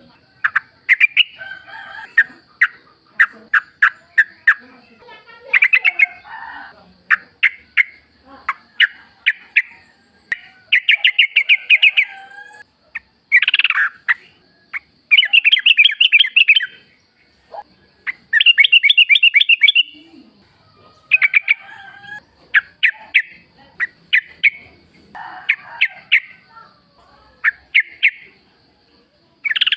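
Yellow-vented bulbul (trucuk) singing in the wild: short, rapid, bubbly chattering phrases repeated one after another with brief pauses between them.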